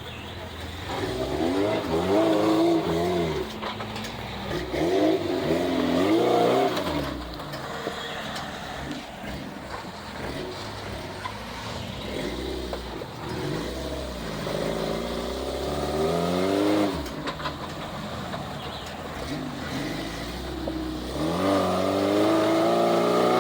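Off-road vehicle engine revving up in repeated surges and easing off between them as it works over rocks, with about four climbs in pitch and the last one held near the end.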